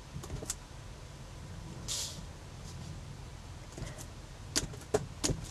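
Scattered light taps and clicks of a rubber stamp and craft tools being handled on a tabletop, with a cluster of taps near the end and a short hiss about two seconds in.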